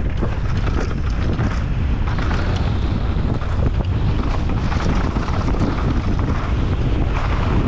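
Steady wind rush buffeting the microphone as a mountain bike descends a dirt trail at speed, with the noise of the tyres on the dirt underneath.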